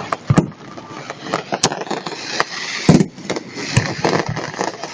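Aerial fireworks shells bursting in a display: a string of loud, deep bangs at irregular intervals, about one a second, strong enough to make the ground vibrate.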